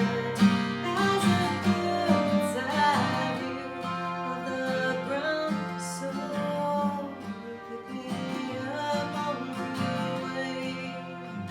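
Live folk song: strummed acoustic guitar with a voice singing a wavering, held line a couple of seconds in.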